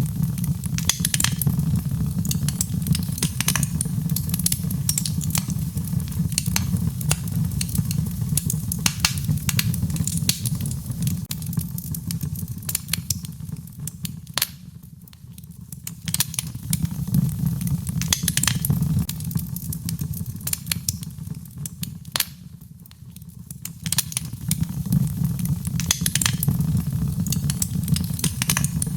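Wood fire crackling in a fireplace: many sharp pops and snaps over a low, steady rumble of flame. The rumble eases briefly twice, about halfway through and again near three-quarters.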